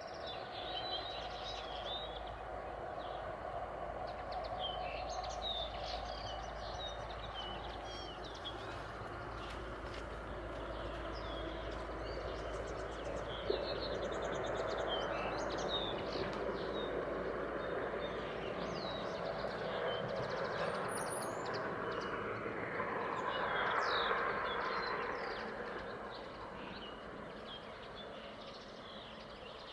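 Small birds chirping and twittering over a steady background rumble; the rumble swells about two-thirds of the way through, then fades away. A single sharp click about halfway.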